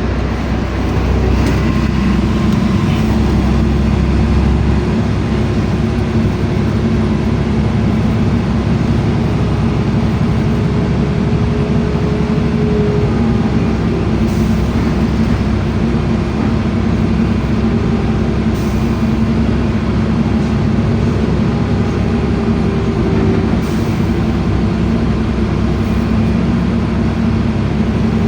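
A LiAZ-5292.65 city bus under way, heard from inside the passenger cabin: a steady engine drone and road rumble, with the engine's pitch drifting slowly up and down as it pulls.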